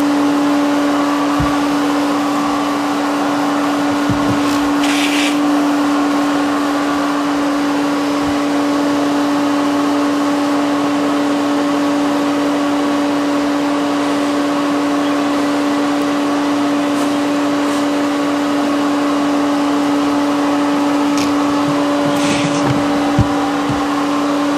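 Bee vacuum's motor running at a steady pitch, a constant hum. There are two brief bursts of hiss, about five seconds in and near the end.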